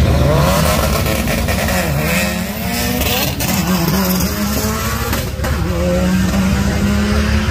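Turbocharged 2.4 L Mitsubishi 4G69 four-cylinder accelerating hard from a drag-strip launch, its pitch sweeping up and dropping back several times, over a steady low engine drone. A single sharp crack about five seconds in.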